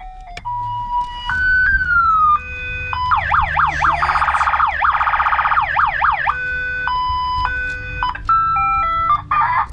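An electronic siren sounds from the pickup's PA horn speaker, cycling through tones: stepped electronic beeps at changing pitches, then a fast, repeated rising-and-falling siren wail from about three to six seconds in, then stepped beeps again.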